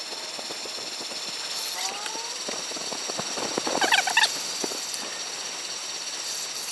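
A bird's chattering call of several quick, sharp notes about four seconds in, the loudest sound, with a shorter gliding bird call about two seconds in. A steady high-pitched insect drone runs underneath, with light clicking.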